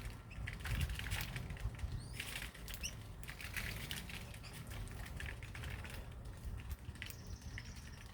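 Small birds fluttering and rustling about, with scattered light clicks and a few brief high chirps.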